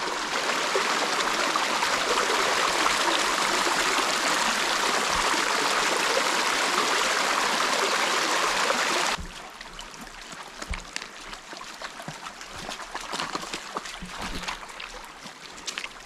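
Shallow river water rushing and trickling over rocks, loud and steady for about nine seconds, then cutting off abruptly to a much quieter background with faint scattered ticks.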